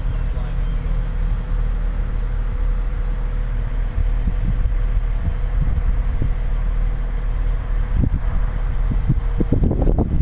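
BMW 335i's 3.0-litre turbocharged straight-six idling steadily through its stock exhaust. Irregular low thumps come in near the end.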